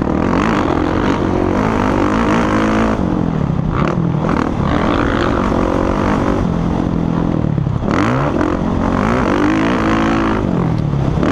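Motocross bikes' engines revving and shifting, pitch rising and falling over and over, with more than one bike running at once.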